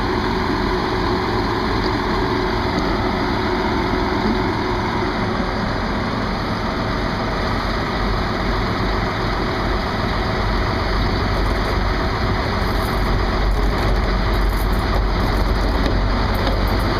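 Diesel train engine running steadily, its low rumble growing louder and heavier in the last few seconds.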